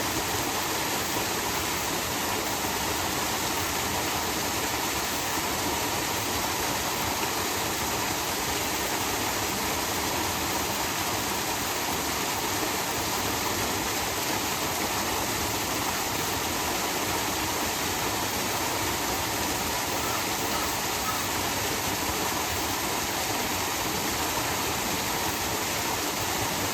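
Small waterfall pouring steadily into its pool, a continuous even rush of falling water.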